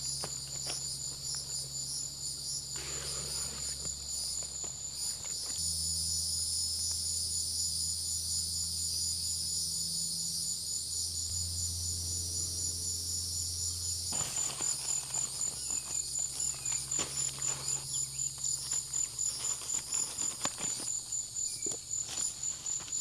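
Crickets chirping in a steady, rapidly pulsing high trill, with scattered faint clicks and a low hum for several seconds in the middle.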